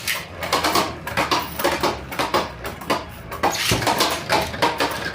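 3D-printed Beyblade spinning tops rattling and clattering around a plastic stadium: a dense, irregular run of quick clicks and knocks.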